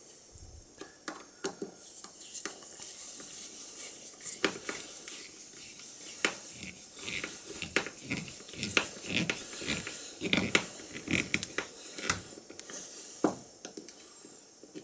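Hand-work on the steel and wooden parts of an antique ox-tongue iron: irregular clicks and knocks as the pieces are handled and set against one another. The knocks come thicker and sharper in the middle stretch.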